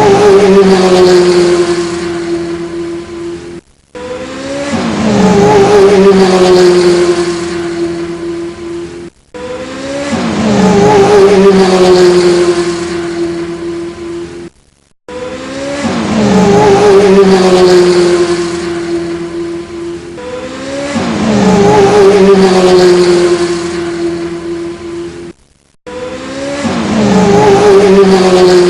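Looped car sound effect: an engine or tyre note that falls in pitch and then holds steady with a slight waver. The same clip repeats about every five and a half seconds, with a brief silent gap each time.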